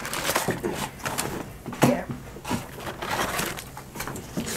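Eating sounds: fried chicken wings and fries being chewed, with scattered short crunches.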